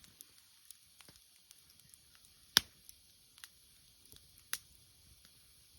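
Wood fire crackling: scattered small irregular ticks and snaps, with two loud sharp pops about two seconds apart.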